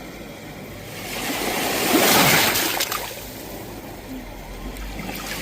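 Sea waves breaking on the shore: one wave swells in about a second in, crashes loudest around two seconds, and washes back, with the next wave starting to build near the end.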